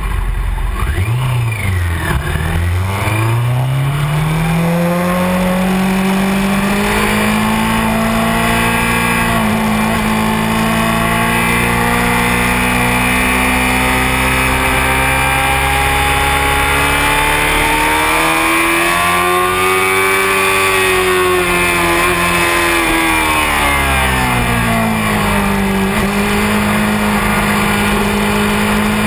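Honda CBR600F4i sport bike's inline-four engine climbing from low revs in the first few seconds, then running at fairly steady revs. Near the middle the revs rise and fall back once, all over a steady rush of noise.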